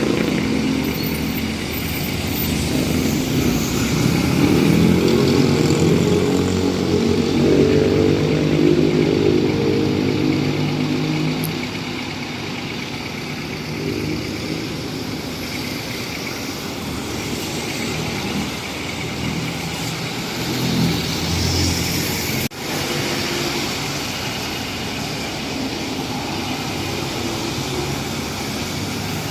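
Street traffic: a motor vehicle's engine runs close by, loudest in the first ten seconds, then eases into a steadier, lower traffic hum.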